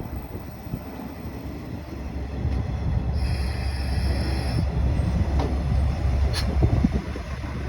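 JR West KiHa 120 diesel railcar arriving at a station: a low rumble of engine and wheels that builds about two seconds in, a high squeal lasting about a second and a half in the middle, and a few sharp clicks from the wheels. The rumble eases near the end as the train comes to a stop.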